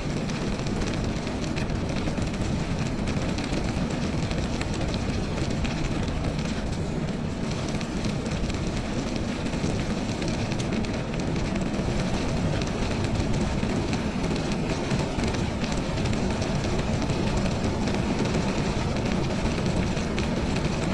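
Steady rumbling noise from riding a bike: wind buffeting the microphone, mixed with the bike rolling along the trail.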